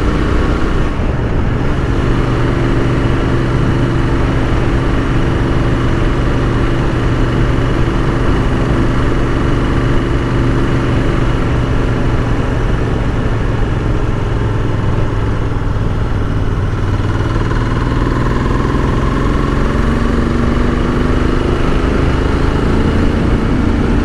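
Royal Enfield Continental GT 650's 648 cc parallel-twin engine pulling steadily as the motorcycle is ridden on the road. Near the end the engine note shifts and climbs slowly as it picks up revs.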